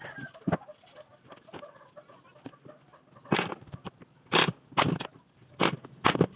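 A series of short, sharp knocks at an irregular pace, a few faint ones followed by louder ones in the second half.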